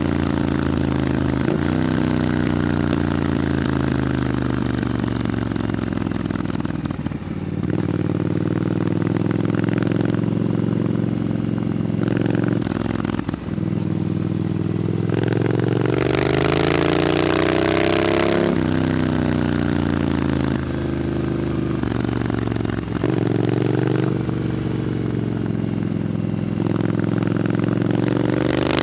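Triumph Scrambler 900's parallel-twin engine through an Arrow exhaust while riding. The engine pitch climbs under acceleration, drops with a short dip at each gear change about 7, 13 and 23 seconds in, and climbs again.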